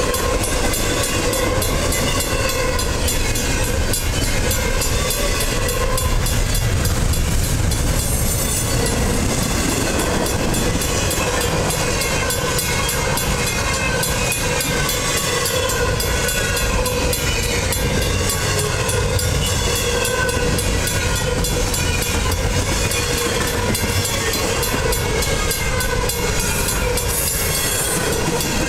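Double-stack intermodal container cars of a freight train rolling past, a steady loud noise of steel wheels on rail with a wavering high squeal running through it.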